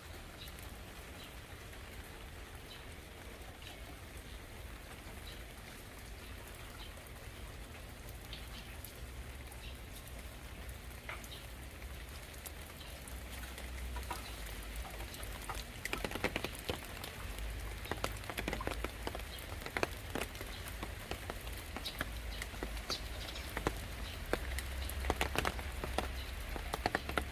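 Rain falling, with many separate drops striking close by. The drops grow denser and louder from about halfway through, over a steady low rumble.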